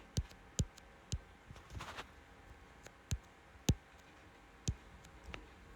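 A series of sharp single clicks, about seven in all, spaced irregularly, the loudest a little after halfway.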